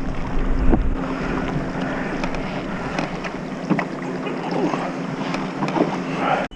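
Wind buffeting the microphone and water lapping against a fishing kayak, with small knocks and a faint steady hum. The wind rumble is heaviest for the first second, and the sound cuts off abruptly near the end.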